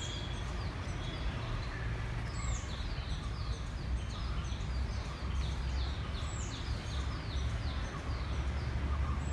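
A bird calling: a fast series of short, high, falling chirps, about three a second, through the middle of the clip. A steady low rumble runs underneath.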